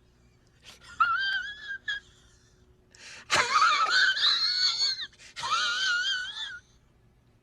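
A high-pitched, wavering whining wail in three stretches, the pitch wobbling up and down, with a sharp click at the start of the loudest middle stretch.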